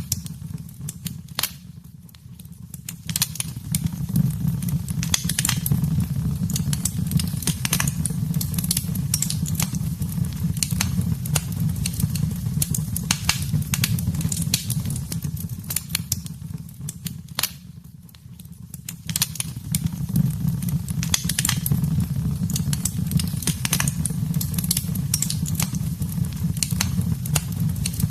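Wood fire burning in a fireplace: a steady low rumble of the flames with frequent sharp crackles and pops of the burning wood, dipping quieter twice for a second or so.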